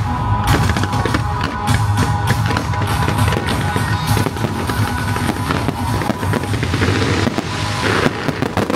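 Firecrackers going off in rapid pops over loud music with a drum beat.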